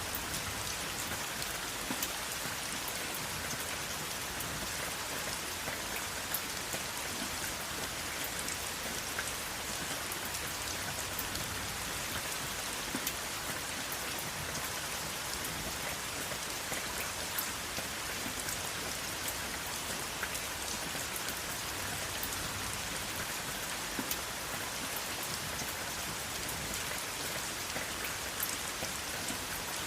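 Steady rain falling, an even hiss with many individual drops ticking sharply on a surface, without thunder.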